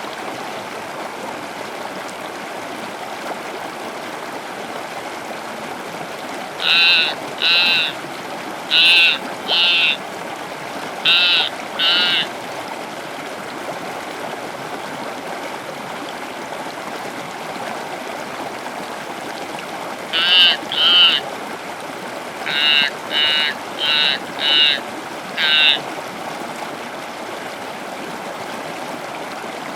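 Short, loud animal calls, mostly in pairs, coming in two bouts with a long gap between, over a steady hiss.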